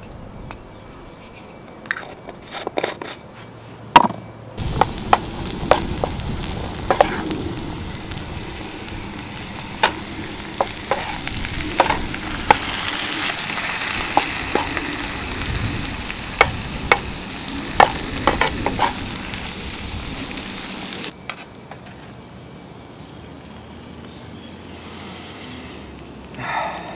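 Food sizzling in a hot pan, with a utensil clicking and scraping against the pan as it is stirred. The sizzling starts suddenly a few seconds in and cuts off sharply near the end.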